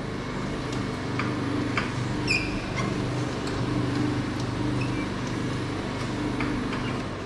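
Motorised cutaway display of a four-cylinder car engine running with a steady hum, with a few light clicks and a brief squeak.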